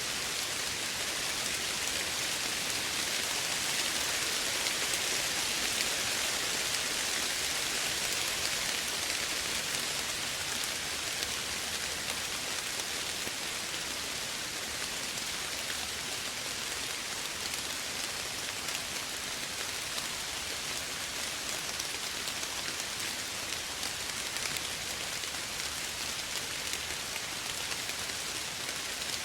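Steady soft rain falling on a surface, an even hiss with dense tiny drop ticks, a little louder in the first third.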